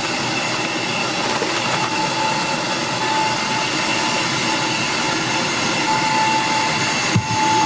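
Food sizzling steadily, with a thin steady whine over the hiss and a brief knock near the end.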